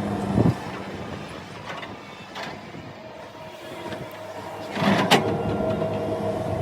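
Excavator's diesel engine running steadily while digging, with two louder knocks, one about half a second in and a stronger one about five seconds in.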